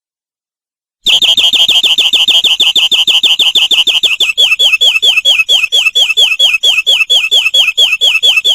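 Domestic canary singing, starting about a second in with a fast trill of repeated high notes, about ten a second. About three seconds later the song changes to a slower run of about five notes a second, each with a falling sweep.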